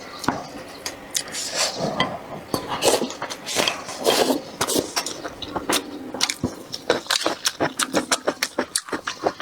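A person eating noodle soup close to the microphone: chewing with many quick wet smacking clicks and a few short slurps. The clicks come faster and more evenly toward the end.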